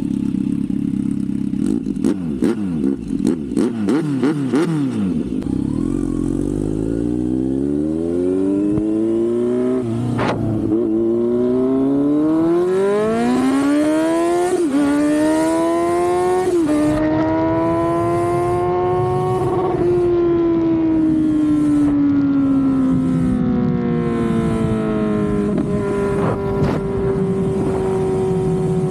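Kawasaki Z900 inline-four motorcycle engine running at idle with a few sharp clicks, then pulling away and accelerating. The engine note rises through the gears, with short dips at each of about three gear changes, holds for a few seconds and then falls slowly as it eases off, with a small step near the end.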